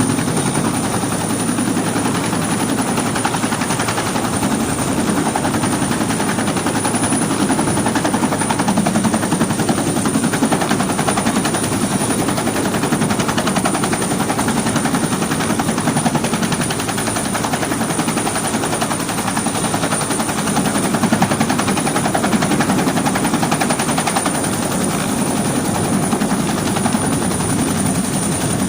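Helicopter running steadily, its rotor chop mixed with rapid machine-gun fire, under a steady high whine.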